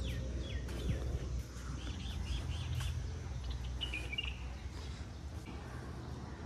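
Birds chirping: short calls several times, with a quick trill about four seconds in, over a steady low outdoor rumble.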